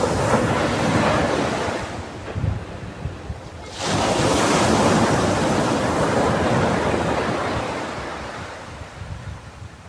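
Ocean waves breaking on a beach: one wash fading out, then a second wave crashing in suddenly about four seconds in and slowly dying away. Wind noise on the microphone.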